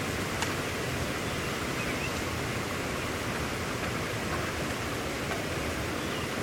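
Steady rain falling, an even, unbroken hiss, with one faint click about half a second in.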